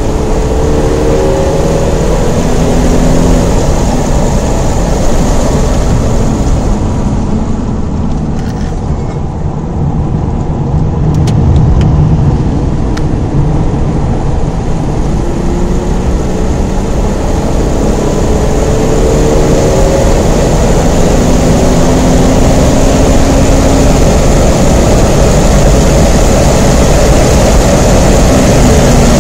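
Holden VT Commodore's 3.8-litre Ecotec V6 heard from inside the cabin under hard track driving, with road and wind noise. The engine note climbs near the start and drops away for a few seconds around the middle. It then rises again and stays loud and steady.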